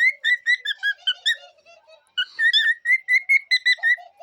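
Male cockatiels singing: quick runs of short, clear whistled notes, about seven a second, with a short pause of softer, lower chatter about a second and a half in before the whistling resumes.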